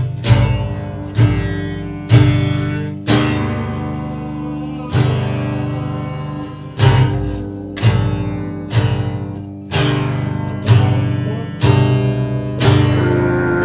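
Guitar strummed in single chords, about one a second, each left to ring out before the next. A steady hiss comes in near the end.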